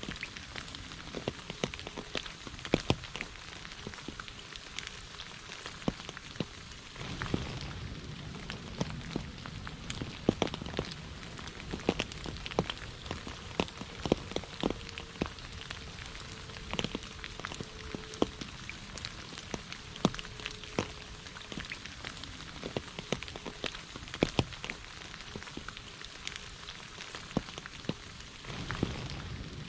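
Heavy rain falling steadily, with frequent sharp individual drop hits standing out over the hiss.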